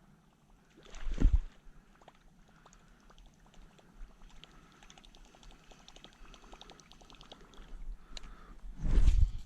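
Water splashing and dripping around a kayak, with two louder splashes: one about a second in and one near the end. Small drips and ticks fall between them.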